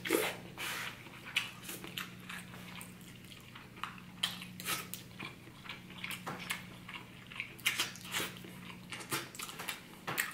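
Close-miked eating: a man biting and chewing meat off the bone, with irregular smacks and clicks of lips and mouth. A faint steady hum underneath.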